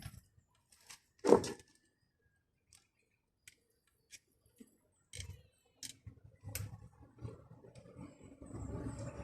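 Scattered metallic clicks and knocks from handling tools and window-regulator parts, with one louder knock about a second in. Near the end, the rising rumble of a vehicle's engine grows louder.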